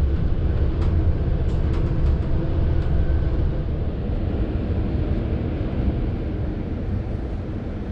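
Ride noise of a ZSSK Ampz passenger coach running on the rails: a steady low rumble with a few light clicks in the first two seconds, easing slightly toward the end.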